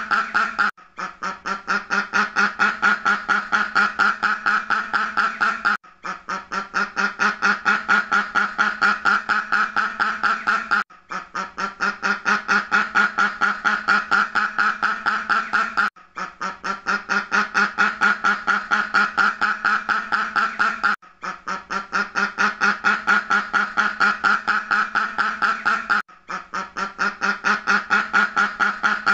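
Rapid, continuous duck quacking at about five quacks a second. It is a looped recording that restarts about every five seconds after a brief break.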